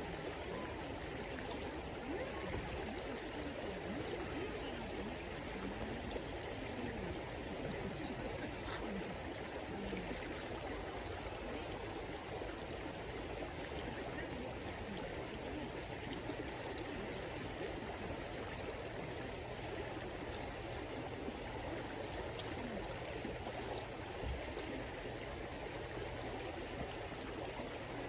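River water flowing steadily over a shallow riverbed.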